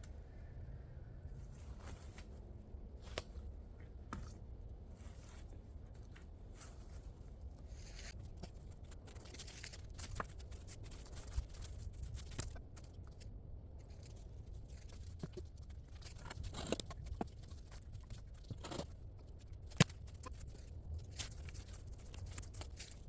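Irregular rustling, scraping and crunching of things being handled, with scattered sharp clicks, over a steady low rumble.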